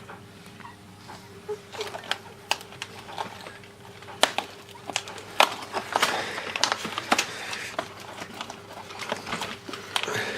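Cardboard advent calendar doors being pressed and torn open, with irregular sharp clicks and crackles that come thickest in the middle, over a faint steady hum.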